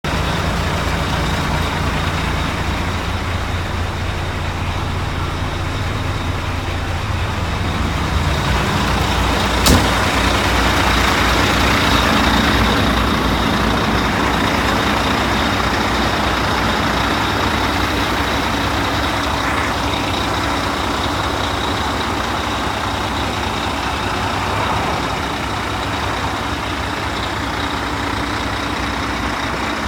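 Diesel engine of a 2007 Volvo quad-axle dump truck idling steadily, with a single sharp click a little under ten seconds in.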